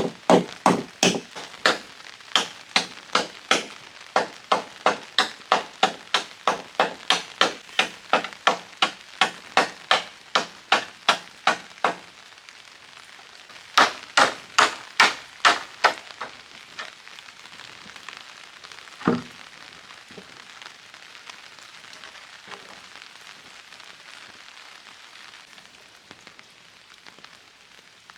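Rapid, even chopping strokes on wood, about two a second, stopping about twelve seconds in and coming back for a short run, then one last knock. A steady hiss of rain runs underneath and is left alone near the end.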